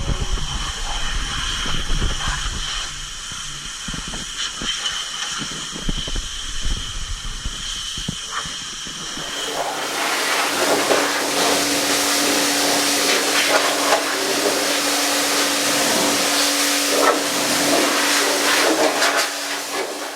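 Steady spraying hiss from a pressurised spray nozzle under a car. About halfway through the hiss grows louder and a steady low hum joins it.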